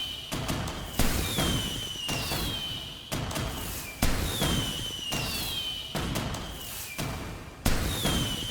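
Fireworks bursting: three loud bangs about three seconds apart. Each is followed by whistles falling in pitch and a crackling tail that fades out.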